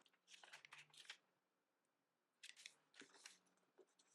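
Faint crisp rustling and crinkling of a large sheet of origami paper being folded corner to corner and creased flat, in two short bursts: one in the first second and another about two and a half seconds in.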